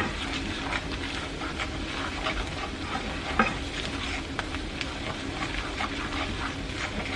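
Butter-and-flour roux with onion and garlic sizzling in a hot pan while a utensil stirs it, scraping and clicking against the pan many times. A faint steady hum runs underneath.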